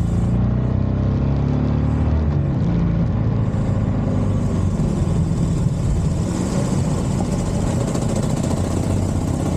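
Harley-Davidson Forty-Eight XL1200's V-twin engine running through a Scorpion exhaust, its pitch shifting over the first two or three seconds, then settling into a steady rumble.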